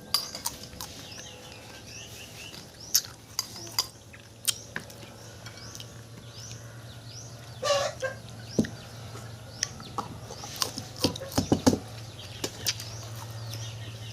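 Scattered sharp clicks and taps of eating and handling food and utensils, over a steady low hum, with faint bird calls in the background.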